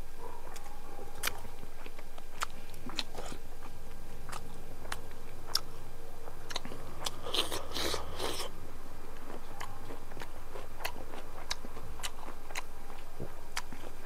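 Close-miked eating sounds of a person chewing a biryani meal: scattered wet mouth clicks throughout, with a denser burst of crunching about seven to eight seconds in.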